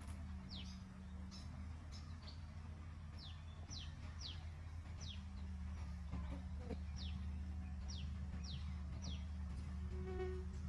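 A small bird repeating short high chirps, each falling in pitch, about twice a second, over a steady low hum. Near the end there is a brief pitched sound with several overtones.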